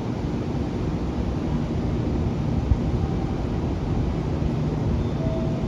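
Steady low rumble and hum of electric trains standing at a station platform, their onboard equipment running, with wind on the microphone. A faint brief tone sounds near the end.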